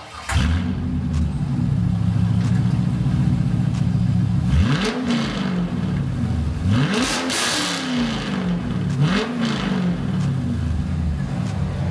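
C5 Corvette's 5.7 L LS1 V8 running through long-tube headers, cats and an X-pipe with the mufflers removed: it fires up just after the start, settles to idle, then is revved three times, each rev rising and falling, about two seconds apart.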